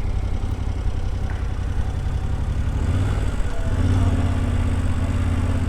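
2021 Yamaha Tenere 700's parallel-twin engine running at low town speed under the rider. Its note shifts and steadies about three and a half seconds in.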